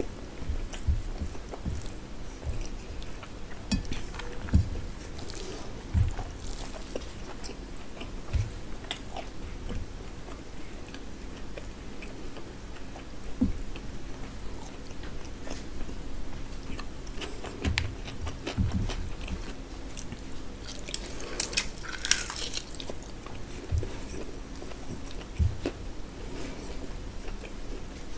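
Close-miked chewing of a mouthful of rice and curry, with wet clicks and scattered soft thumps as a hand mixes rice and gravy on a steel plate.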